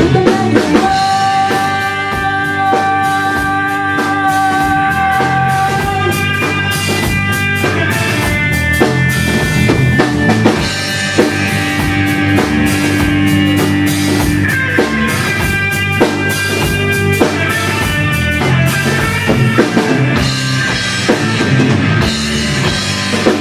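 Live rock band playing an instrumental passage without vocals: drum kit and guitar, with long held notes over a steady beat.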